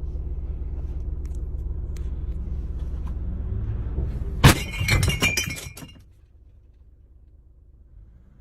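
A steady low engine rumble, then a sudden loud crash about four and a half seconds in, with glass shattering and pieces clinking for about a second and a half; afterwards only a faint low hum.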